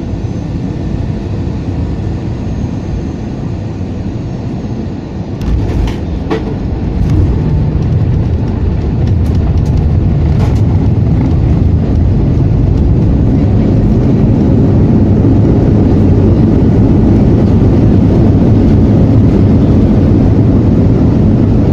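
Airbus A320 touching down, with a few sharp knocks about five seconds in, then the jet engines' reverse thrust building into a loud, steady roar that holds to the end, heard from inside the cabin.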